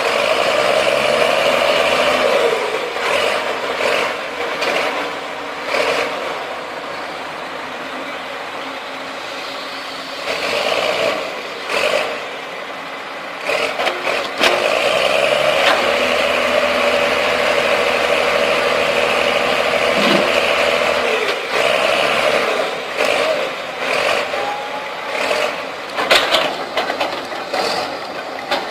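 Heavy diesel engines of tracked earthmoving machines working hard under load, revving up and easing back, during a recovery of a bulldozer stuck in mud. Sharp clanks and rattles of metal come through the engine noise.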